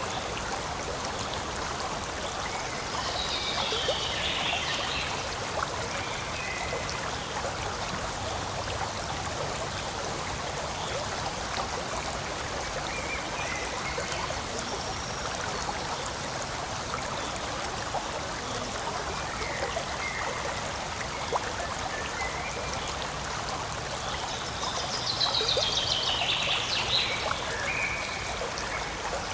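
Forest stream running steadily, a continuous rushing and trickling of water. It turns briefly brighter and louder a few seconds in and again near the end.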